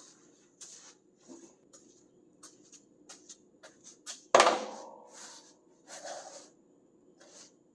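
Metal hand tools being handled: a run of light clicks and clinks, with one loud metal clank about four seconds in that rings briefly as it fades.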